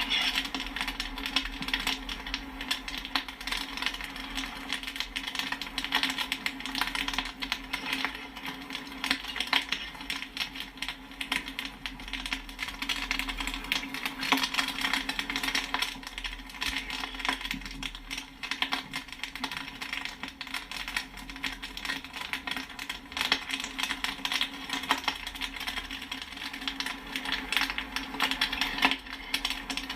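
Popcorn kernels popping and pinging in quick, irregular succession, many pops a second, over a steady low hum.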